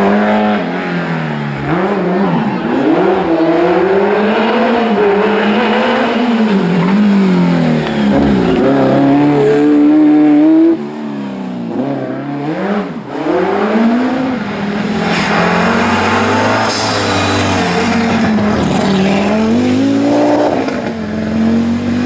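Historic rally car engines at full throttle on a special stage, the pitch climbing and dropping again and again through gear changes and lifts. The level drops suddenly about eleven seconds in, and there is a hiss of tyre noise in the second half.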